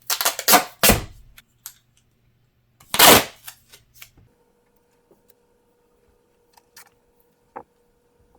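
Duct tape being pulled off the roll and torn: a few short sharp rips in the first second, then one louder, longer rip about three seconds in, followed by a few faint clicks of handling.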